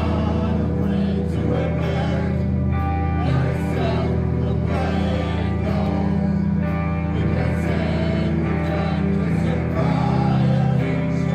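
Rock band playing live: guitar and heavy sustained bass notes over steady drum and cymbal hits.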